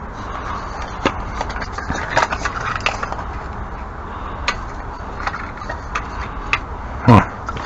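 Scattered light knocks and clicks of things being handled and moved about, over a steady low background rumble. A short vocal sound, like a grunt, comes near the end.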